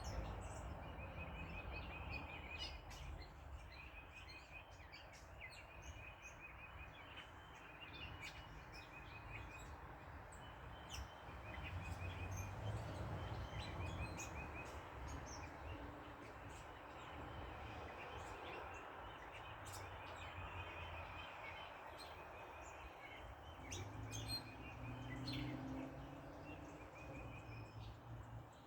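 Backyard ambience: small birds chirping, one repeating a short rapid trill about once a second, over a faint low rumble of road traffic that swells twice.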